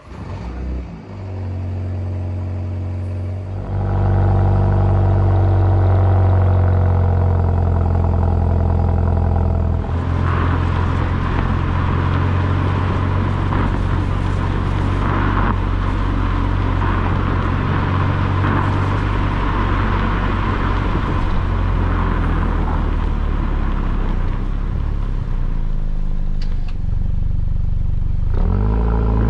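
BMW 128ti's turbocharged four-cylinder engine running through its stock exhaust at a steady pitch. It gets louder about four seconds in, and a rushing noise joins the engine note from about ten seconds in.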